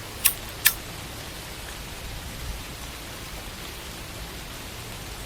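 Steady hissing background noise with two short, sharp clicks in quick succession near the start.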